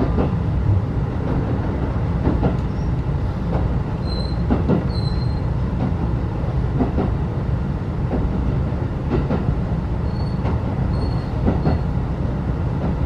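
Interior running noise of a 35-series passenger coach hauled by a DD51 diesel: a steady rumble with irregular knocks as the wheels pass rail joints. Brief high wheel squeals come twice, about four and about ten seconds in.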